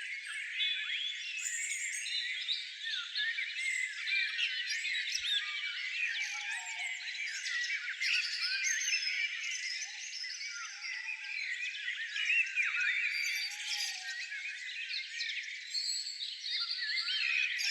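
A dense chorus of many small birds chirping and singing at once: quick, overlapping chirps and short whistled glides, with a few lower calls now and then.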